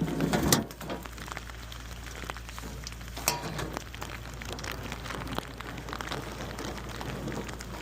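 Rain pattering steadily over the low, steady hum of a 15 kW diesel standby generator just started and running, with a sharp click about three seconds in.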